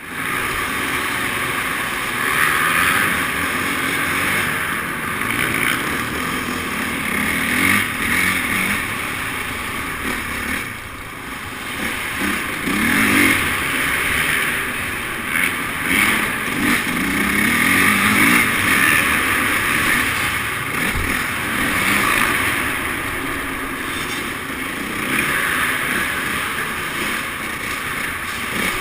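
Motocross motorcycle engines revving up and easing off over and over, with no break.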